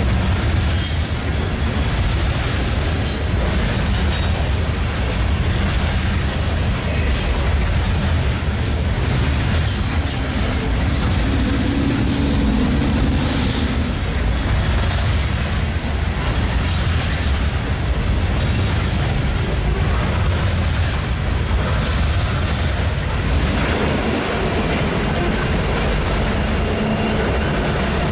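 Coal hopper cars of a freight train rolling past: a steady rumble with wheels clacking over rail joints. Near the end, the steady hum of approaching diesel locomotives joins in.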